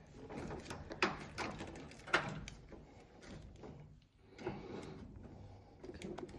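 Sharp clicks, knocks and scraping of washing machine water-valve parts being handled and pushed into place, with the strongest knocks about one and two seconds in.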